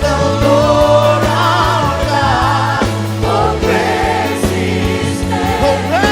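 Worship band and congregation singing a praise song, voices with vibrato over bass and keyboard accompaniment.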